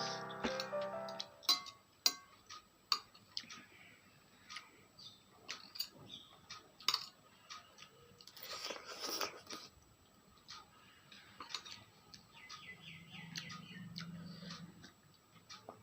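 Close-up mukbang eating sounds from someone eating spicy instant noodles: many small wet clicks and smacks of chewing, with a louder noisy stretch of about a second around the middle. A fading bit of piano music can be heard at the very start.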